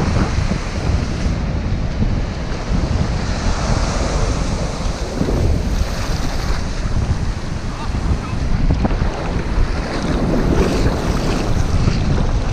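Surf washing in over a sandy beach, with wind buffeting the microphone and a deep rumble that rises and falls.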